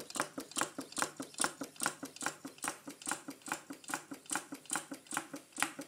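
Small Stirling engine running, its moving parts clicking in an even rhythm of about two to three loud clicks a second with softer clicks between.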